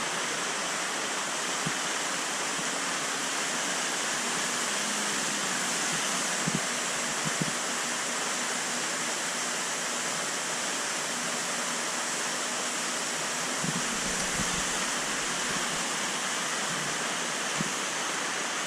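Steady rush of water falling and splashing into a koi pond, with a few faint knocks.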